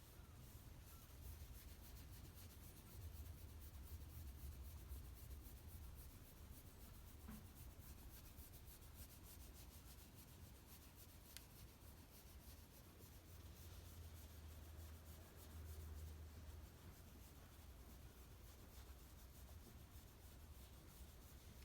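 Near silence with faint soft rubbing, typical of a hand stroking a Shiba Inu's fur.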